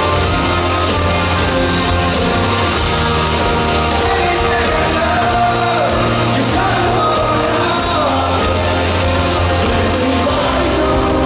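Live rock band playing in a large concert hall, with a sung vocal line over sustained guitars, bass and drums, recorded from the audience.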